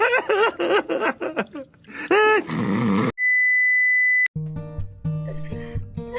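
A short inserted sound-effect clip of voice-like cries that bend up and down in pitch, followed by a steady high beep lasting about a second. About four seconds in, acoustic guitar background music starts.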